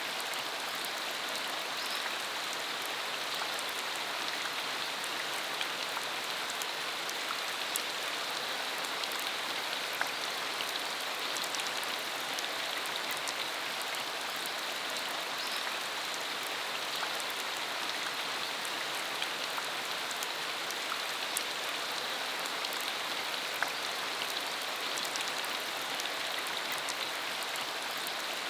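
Steady rain falling on a dirt country road, a continuous even hiss with many scattered ticks of individual drops.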